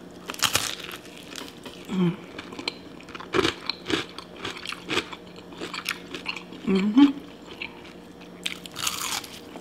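Biting into crispy fried chicken, then chewing it: a crunchy first bite about half a second in, followed by repeated crunching chews.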